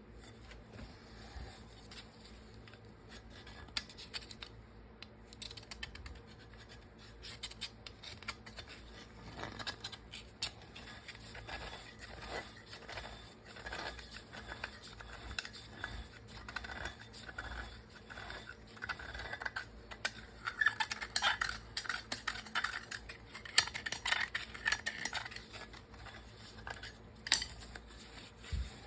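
Hand tools scraping and clicking against metal parts, in irregular strokes that come thicker and louder in the second half.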